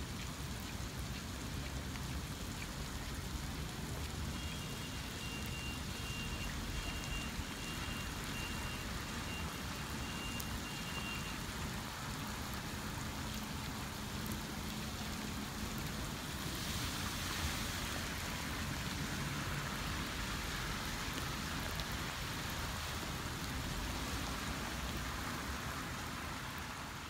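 Steady rain falling and splashing on hard surfaces, an even hiss. A faint thin high tone sounds on and off from about four seconds in until the middle, and the hiss turns brighter and a little louder about two-thirds of the way through.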